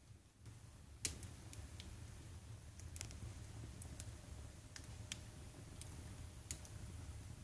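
Firewood burning in an open fireplace, crackling with about half a dozen sharp pops, the loudest about a second in, over a faint low rumble.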